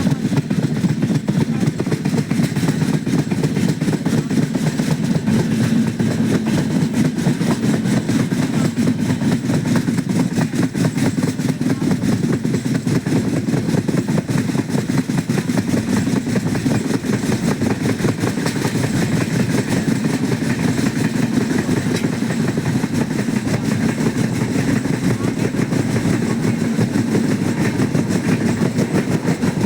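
Passenger train running along the track, a steady low rumble of wheels and rails that doesn't let up.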